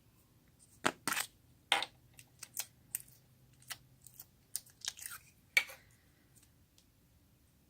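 Slime being squished and worked by hand, giving an irregular run of sharp crackles and pops for about five seconds.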